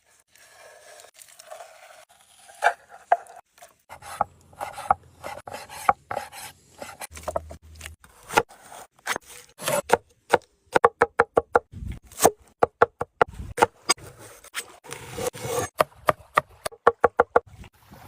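Knife chopping on a wooden cutting board: scattered cuts and scrapes, then two quick runs of rapid even strokes, about five a second, in the second half.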